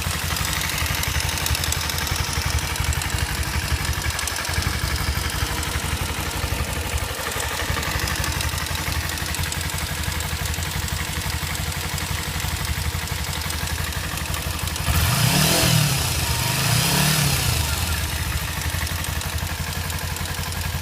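Kawasaki Ninja 250 motorcycle engine idling with a ticking noise whose cause the owner does not know. It is revved briefly twice in quick succession about three-quarters of the way through, the pitch rising and falling each time.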